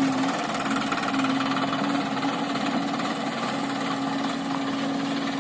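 Sonalika DI 47 RX tractor's three-cylinder diesel engine running at a steady speed.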